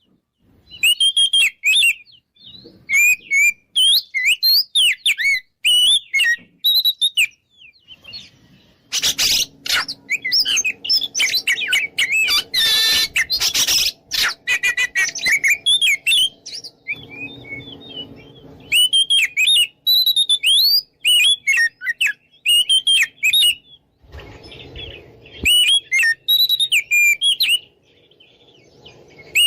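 Oriental magpie-robin (kacer) singing a loud, full 'ngeplong' song: rapid, varied whistled notes, slurs and trills in short phrases with brief gaps. A harsher, noisier passage comes about nine to fourteen seconds in.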